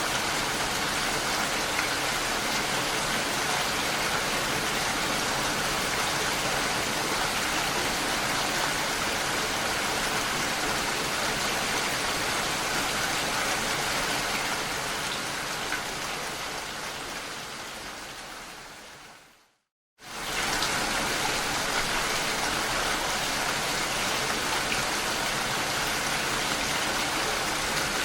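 Steady rain. Two-thirds of the way through it fades out over a few seconds to a moment of silence, then comes back suddenly at full level, as at the loop point of a rain recording.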